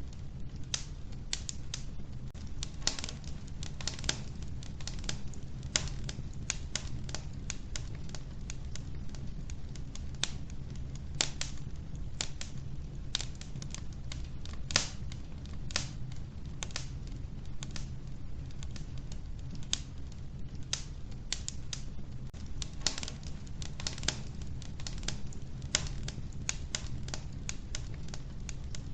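Logs burning in a wood-burning stove, crackling and popping irregularly over a steady low rumble of the fire.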